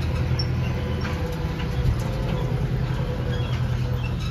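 Miniature zoo train running: a steady low hum with light clicking and rattling throughout, and a few faint chirps above it.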